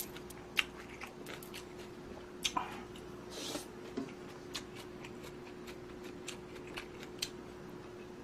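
A person eating budae-jjigae noodle soup close to the microphone: scattered sharp mouth clicks and smacks of chewing, with a short breathy rush about three and a half seconds in. A faint steady hum runs underneath.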